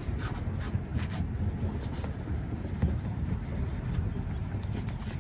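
A rag rubbing steadily over a chrome exhaust tip, wiping off heavy cutting compound.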